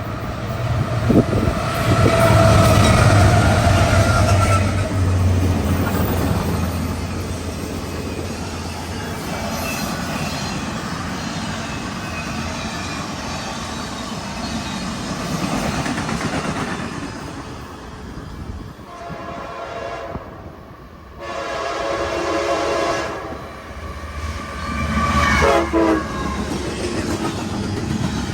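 CSX diesel freight locomotives passing with a heavy engine rumble, followed by rail cars clattering over the track. In the second half a locomotive horn sounds several blasts, two long and then a shorter one.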